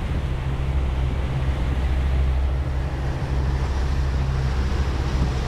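Tour boat's engine running steadily underway, a constant low drone over an even rush of water and wind noise.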